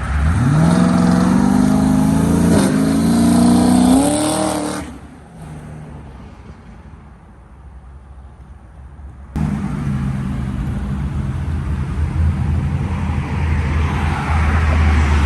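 A car engine revving up sharply and holding high revs for about four seconds before dropping away. After a sudden jump, a car engine runs with a steady low rumble, with a rising rush near the end like a car moving past.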